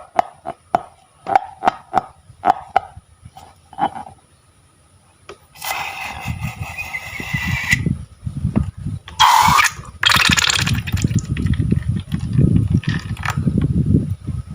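Slime being worked by hand. It starts with a quick run of short wet clicks and pops, then comes a spell of hissing rustle and dense low squelching and crackling.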